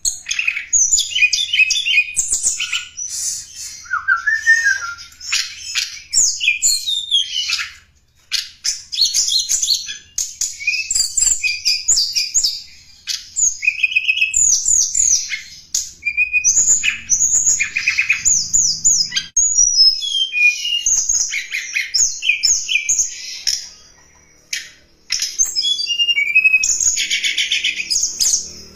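Tledekan gunung songbird singing almost without pause: quick high chirps, rapid trills and sweeping twittered phrases, the song used as a lure call for wild tledekan.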